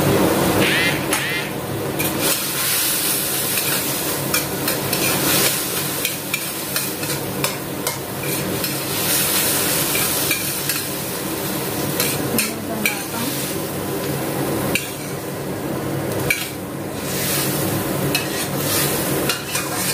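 Food sizzling as it fries in a pan, stirred with a utensil that clicks and scrapes against the pan again and again, over a steady low hum.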